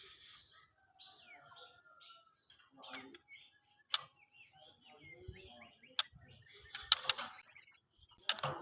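Female murai batu (white-rumped shama) calling: short high chirps and brief whistles, broken by a handful of sharp click-like calls about a second apart.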